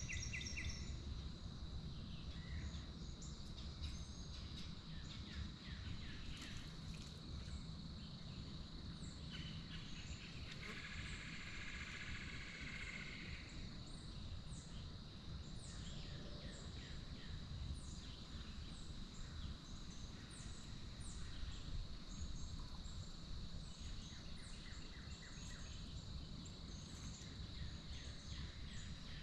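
Outdoor bird chatter: many short, high, falling chirps from small birds come one after another over a steady thin high-pitched tone and a low rumble of wind. A louder buzzy call lasts about three seconds near the middle.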